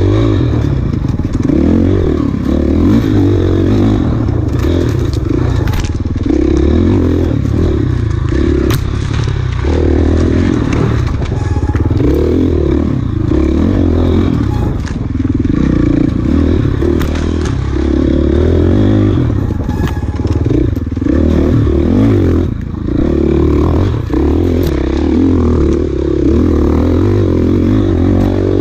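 Enduro dirt bike engine running hard over rough ground, the throttle opening and backing off every second or two, with constant clatter and scraping.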